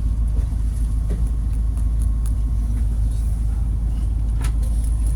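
Steady low rumble inside a train carriage, with a few faint clicks and a thin high whine over it.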